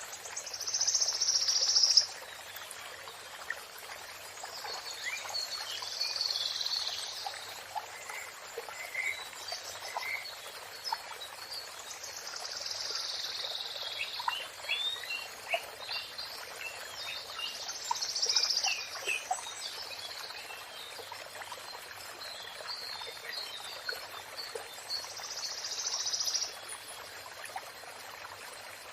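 Songbird singing short, bright phrases every few seconds, the loudest at the start, with scattered chirps in between, over a steady rush of running water.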